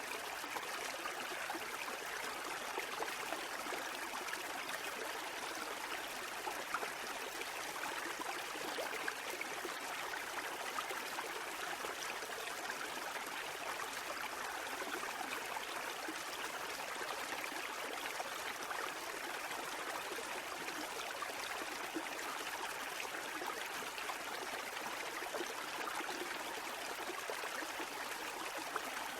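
Continuous water sound: a steady rush and trickle with no separate wave swells rising and falling.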